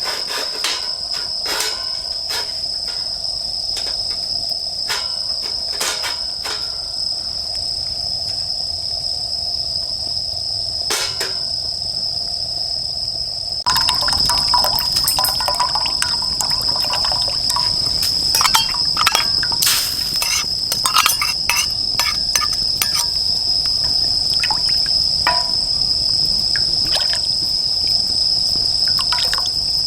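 Firewood burning in a fire pit, crackling and popping in sharp, irregular snaps, over crickets and other grass insects chirping in a steady high trill. About 14 s in the sound steps up in loudness and the crackling becomes busier.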